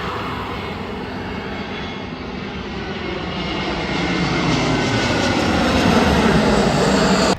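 Airliner engines on a landing approach, a steady roar with a faint whine that grows louder, then cuts off abruptly at the end.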